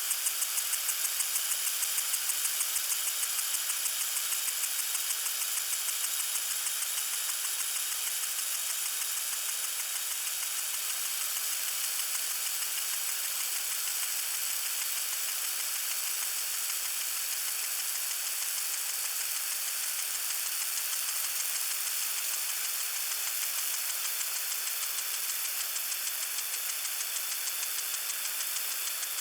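Lawn sprinkler spraying water: a steady hiss with a fast, regular ticking running through it, a little stronger near the start.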